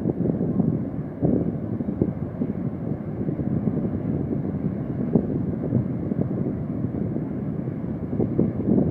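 Wind buffeting the microphone over the steady low rush of heavy surf, with no distinct events.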